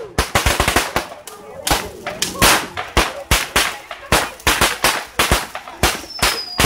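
Fireworks firing in quick succession: sharp, irregular cracks and bangs, several a second. Near the end a high whistle sets in and slowly falls in pitch.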